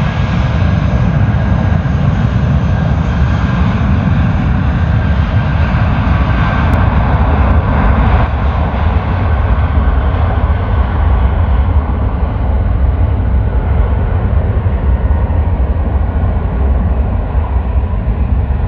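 Jet airliner's engines, a loud steady rumble with a faint whine. The high end fades gradually from about seven seconds in as the plane moves away.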